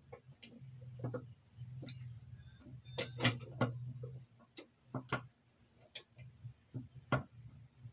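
Irregular metallic clicks and taps of a spanner working the nuts loose on an electric motor's casing, one sharper knock a few seconds in.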